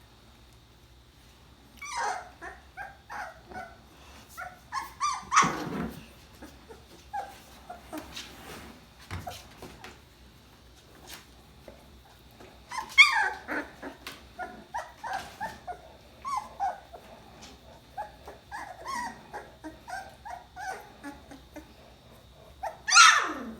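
Two-and-a-half-week-old puppies whimpering and squeaking in bursts of short, high cries with pauses between. A louder cry falls in pitch about five seconds in, and another near the end.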